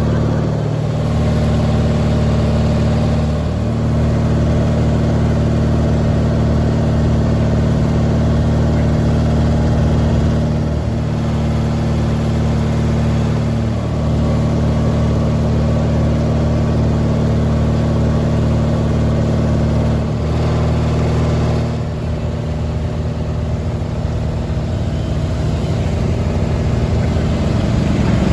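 Garden tractor engine running steadily at a constant speed, its pitch shifting briefly a few times. It drops a little in speed and level about three-quarters of the way through.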